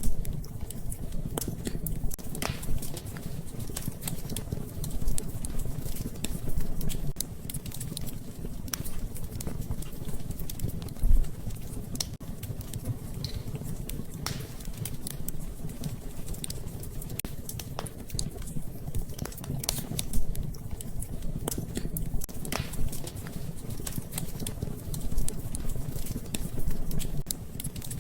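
Wood fire in a fireplace crackling, with irregular sharp pops and snaps, a few louder ones, over a low steady rumble of the flames.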